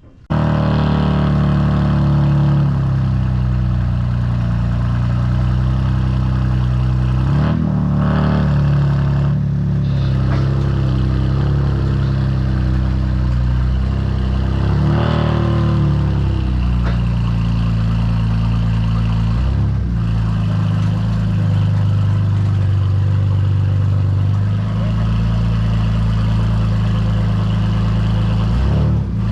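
Car engine running at low revs with a few short blips of throttle, the pitch rising and falling about 8, 15 and 20 seconds in, as the car is driven down off a trailer.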